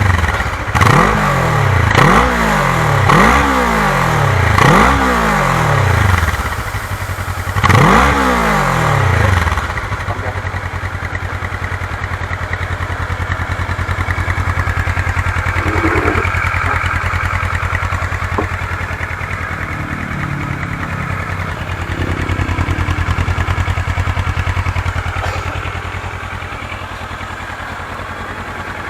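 Kawasaki ER-6's 649 cc parallel-twin engine on its stock exhaust, blipped about five times in quick succession, each rev rising sharply and dropping back. After about ten seconds it settles into a steady idle.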